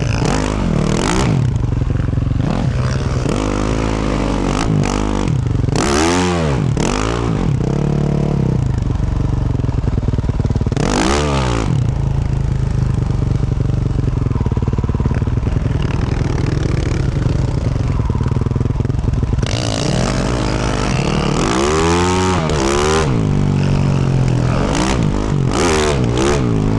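2024 Yamaha YZ450F's single-cylinder four-stroke engine, fitted with a Yoshimura RS-12 exhaust, revving up and down over and over as the bike is ridden. Several short bursts of noise and clatter are mixed in.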